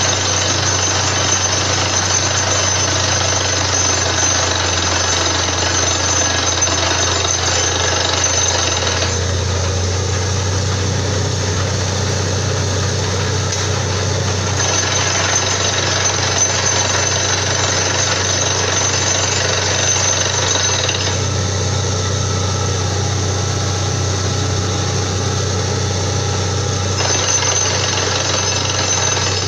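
Borewell drilling rig running continuously, a loud steady machine din over a low hum. Twice the higher hiss eases off for several seconds, about nine seconds in and again about twenty-one seconds in, then returns.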